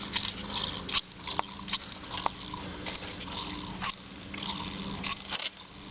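Plastic clicks and rattles from hands working the controls of a two-stroke Echo backpack leaf blower, pumping its primer bulb ahead of a cold start; the engine is not running. The clicks come irregularly over a faint steady hum.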